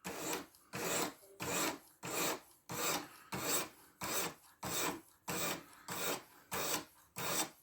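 A 600-grit diamond stone on a guided fixed-angle sharpener being drawn along a 14C28N steel knife edge: about thirteen even scraping strokes, a little under two a second, each separated by a short pause.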